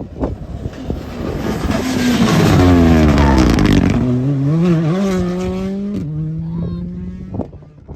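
Rally car passing at speed: the engine note builds to its loudest about three seconds in, then drops in pitch and steps up and down as it goes by. It holds a steadier lower note before fading away near the end.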